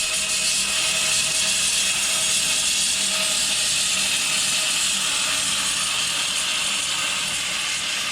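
Large home-built bandsaw mill running steadily, its blade sawing through a maple log with an even hiss.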